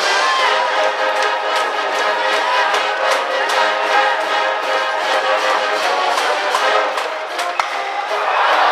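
High school cheering brass band playing a stands cheer song, held brass notes over steady drum hits.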